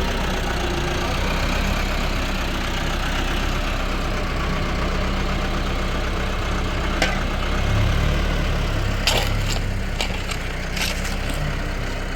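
Tractor engine running steadily, with a single sharp crack about seven seconds in and a cluster of sharp knocks and cracks near the end.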